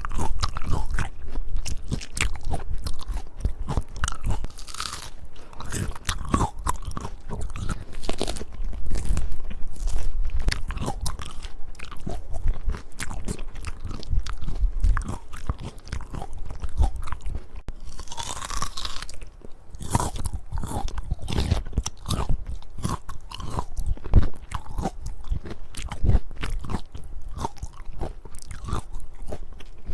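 Close-miked crisp biting and chewing of peaches: a dense, irregular run of crunchy bites and chews.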